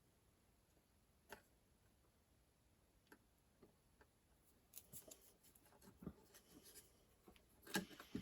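Near silence with faint, scattered clicks and light taps of tweezers and a soldering iron being worked on a circuit board. The taps grow busier in the second half, with a louder click near the end.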